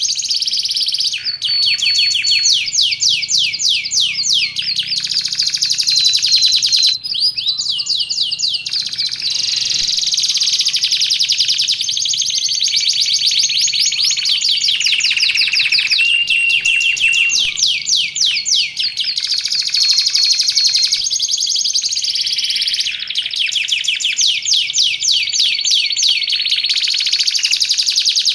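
Domestic canary singing continuously in long, fast, rolling trills of rapid repeated notes, switching from one trilled phrase to the next every few seconds, with short clear held whistles mixed in.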